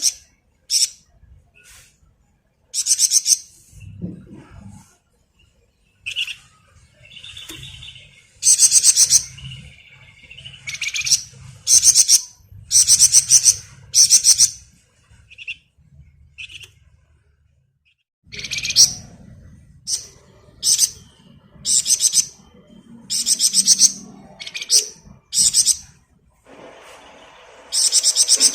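Flamboyan songbird singing in its rapid, buzzing 'ngebren' trill. The trills are very high-pitched, come in bursts of about a second each, and repeat with short pauses, with a few lower chirping notes between them.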